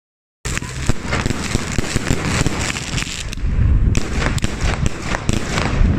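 Fireworks going off: a dense run of sharp bangs and crackles that starts abruptly about half a second in, with a heavy low rumble under it that grows stronger about halfway through.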